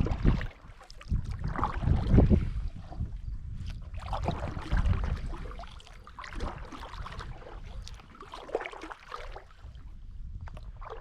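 Kayak paddle strokes dipping and splashing in river water, with irregular low rumbles of wind on the microphone.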